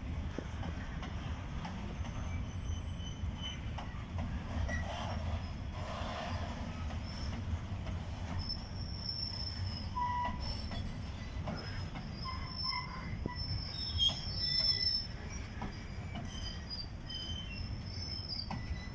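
A train rolling past on the rails with a steady low rumble, its wheels squealing on and off in thin high-pitched tones, briefly louder about fourteen seconds in.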